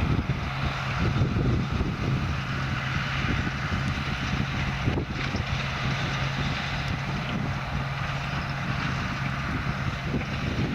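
Massey Ferguson tractor engine running steadily while it pulls a McHale baler baling haylage, with wind rushing on the microphone.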